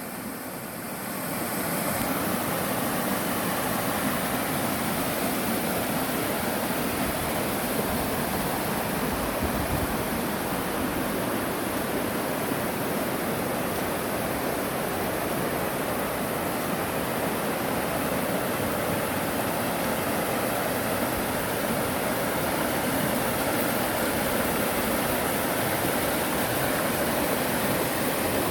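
Clear mountain stream rushing over rocks in a valley, a steady, even water noise that swells in over the first second or two.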